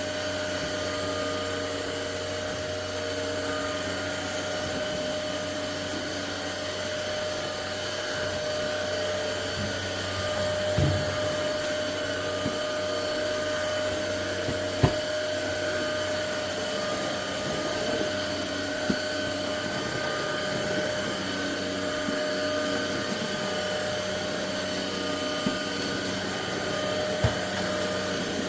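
Cordless stick vacuum cleaner running steadily, its motor holding a constant tone, with a few short knocks and clicks along the way; the sharpest comes about halfway through.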